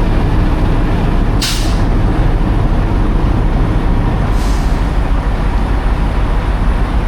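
Semi truck diesel engine idling with a steady low rumble, broken by two short sharp air hisses about a second and a half in and again around four and a half seconds, the first louder.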